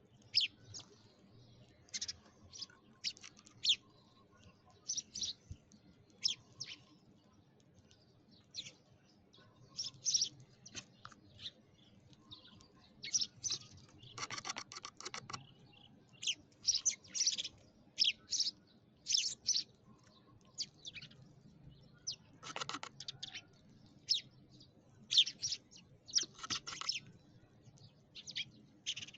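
Sparrows chirping: many short, high chirps in irregular bursts, with a longer, harsher call about fourteen seconds in and another about twenty-three seconds in.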